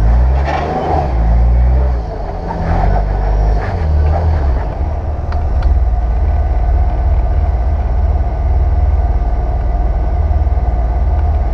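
Waterfall running, a steady low rumble with a fainter rushing hiss above it.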